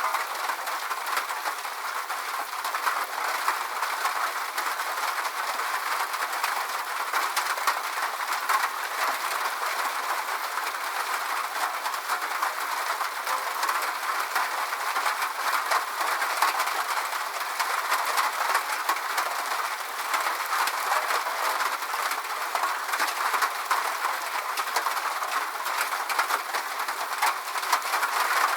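Steady rain falling, a continuous hiss dotted with a dense patter of individual drops, with no low rumble.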